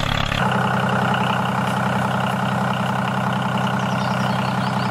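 Engine idling steadily, as for the toy two-wheel tractor in the scene. About half a second in the sound shifts to a smoother, even hum.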